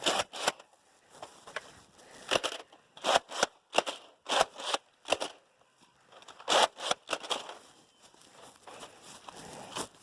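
About a dozen sharp plastic clicks and clacks at irregular spacing, from a Nerf blaster's priming mechanism being worked by hand. Its dart-tooth catch, which stops the priming bar, needs fixing.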